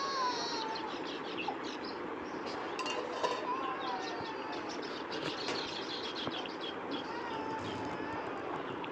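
Several birds chirping and calling: many quick high chirps mixed with short whistled notes that slide up and down, over a steady hiss.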